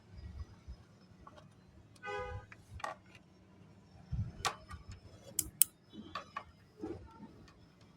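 Irregular light clicks and ticks of dry namkeen snack pieces being handled and sorted, with a few soft low thumps and a short pitched tone about two seconds in.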